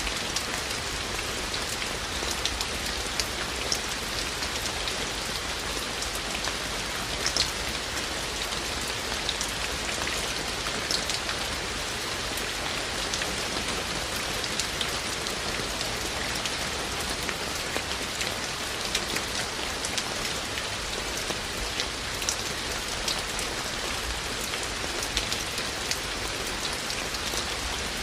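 Steady rain falling, with a constant hiss and frequent individual drops ticking sharply on nearby surfaces.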